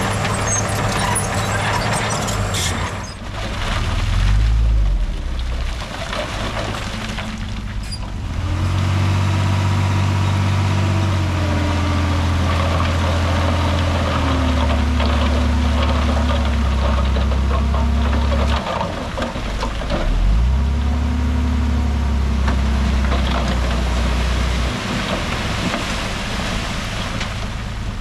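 Heavy diesel engines of earth-moving machinery running under load, the engine note shifting and stepping down in pitch several times as they work.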